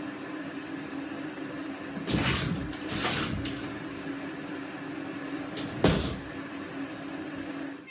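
A cupboard door knocking and rattling three times, at about two, three and six seconds in, over a steady low hum.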